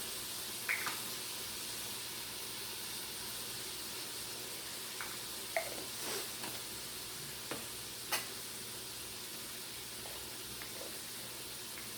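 Diced onion and celery sizzling steadily in bacon fat in an Instant Pot's pot on sauté, with a few light clicks and taps scattered through.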